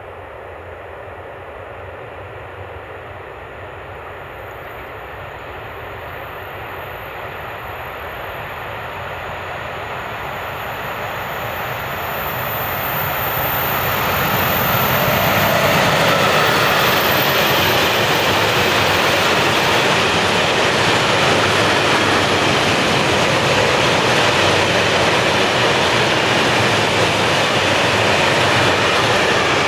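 Freight train of covered hopper wagons hauled by an ÖBB Taurus electric locomotive, approaching and passing close by. A rising rumble peaks as the locomotive goes past about halfway through, then the wagons roll by in a steady noise, with a thin high whine in the first half.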